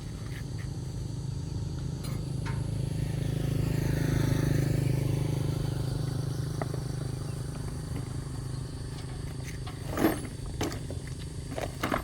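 A motor vehicle passing close by, its engine and tyre noise swelling to a peak about four seconds in and then fading away. A few sharp knocks follow near the end.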